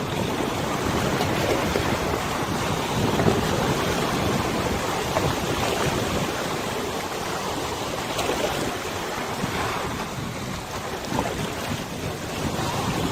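Wind gusting across the microphone over the wash of river water, a steady rushing noise that swells and eases.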